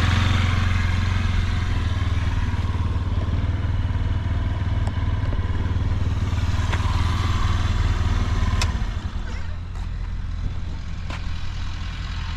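Honda Giorno Crea's 50 cc single-cylinder four-stroke scooter engine idling steadily, with no abnormal noises. It drops a little in level after about nine seconds, and a few light clicks come through near the end.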